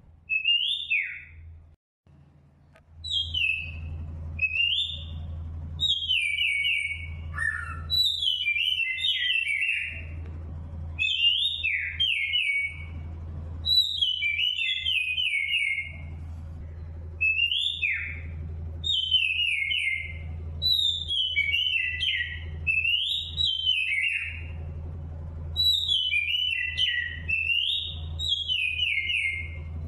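A songbird singing repeated short phrases of quick, falling whistled notes, one every couple of seconds, over a steady low hum.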